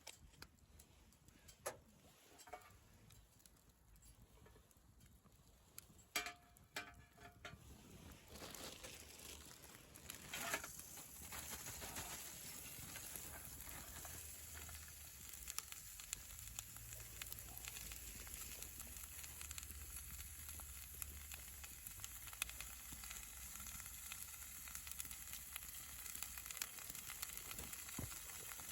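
Food sizzling during camp cooking: a few light clicks and knocks, then a steady sizzling hiss that starts about eight seconds in and keeps going.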